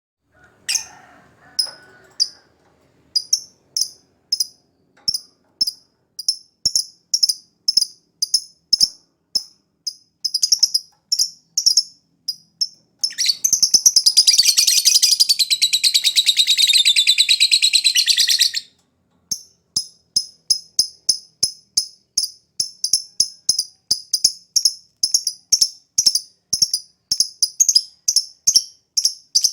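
Lovebird chirping in short, sharp, high calls about twice a second, breaking into one long, rapid chattering trill lasting about five seconds near the middle. It is a trigger recording, played to coax lovebirds that are reluctant to sing into singing.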